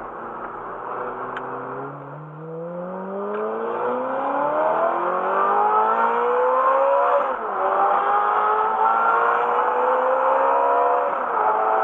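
Ferrari F430's 4.3-litre V8 accelerating hard, its note climbing steadily and then dropping sharply for an upshift about seven seconds in. It climbs again to a second upshift near the end.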